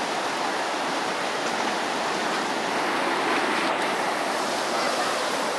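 Swollen floodwater rushing past in a steady, unbroken noise of churning water.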